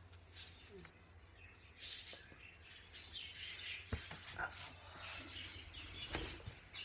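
A pet bird chirping in short, scattered calls, with a sharp knock about four seconds in.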